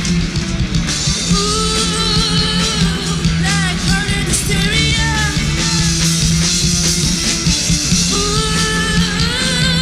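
Rock band playing: drums, bass and electric guitars, with a sung or lead line wavering above.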